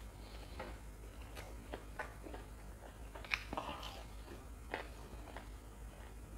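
Close-miked chewing of a bite of Sri Lankan fried lentil fritter (wade): irregular crisp crunches, the loudest a little past the middle of the chewing.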